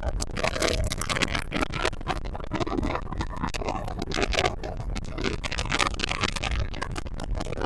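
Boat running fast over the water: wind buffeting the microphone, with the hull slapping and water rushing. A dense crackly rush with a steady low rumble underneath.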